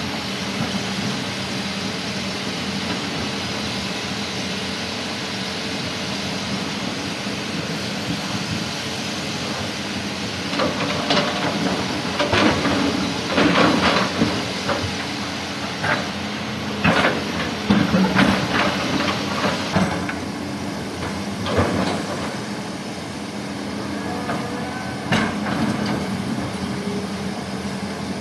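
Heavy machinery engine running steadily, with bursts of loud clattering crashes from about ten seconds in to about twenty-two seconds as an excavator bucket drops coral rock into a dump truck's bed.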